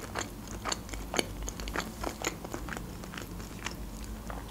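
Close-miked chewing of a mouthful of food with the mouth closed: a steady run of small wet clicks and smacks, about three or four a second.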